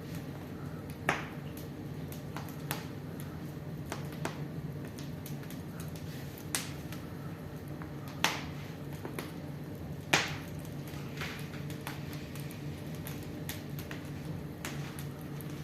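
Wood fire in a fireplace crackling, with irregular sharp pops over a steady low hum; the loudest pops come about a second in and twice later on.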